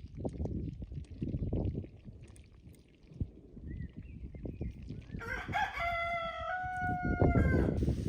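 A rooster crowing once: one long, drawn-out call that starts about five seconds in and lasts nearly three seconds. Low thumps and rumbling run underneath.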